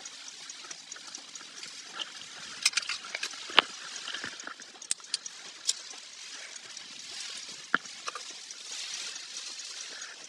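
Typhoon wind and rain heard from inside a moving car: a steady hiss, with scattered sharp taps of raindrops striking the car's body and glass.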